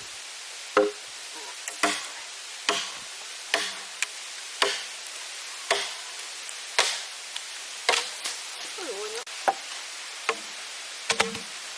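Repeated chopping strikes with a hand tool, about one a second, over a steady background hiss.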